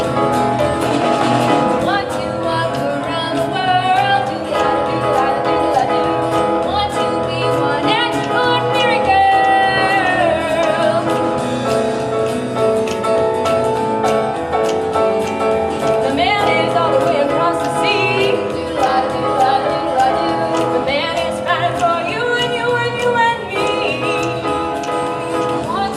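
Singing with instrumental accompaniment: a song from a stage musical.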